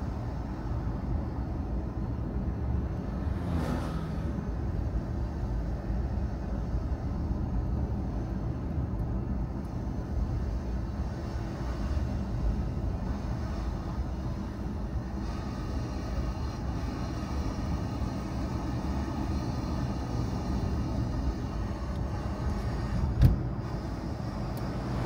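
Car driving: a steady low rumble of engine and tyre noise, with a single sharp knock near the end.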